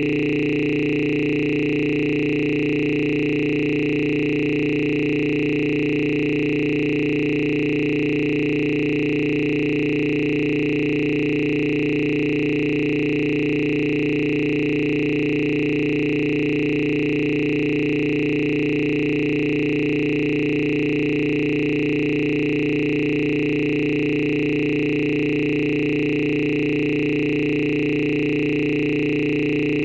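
A steady electronic drone of several held tones, low, middle and high, that does not change in pitch or loudness.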